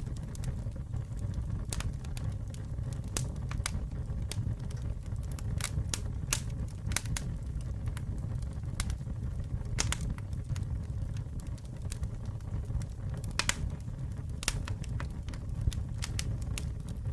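Campfire burning with a steady low rumble and frequent irregular sharp crackles and pops from the burning wood.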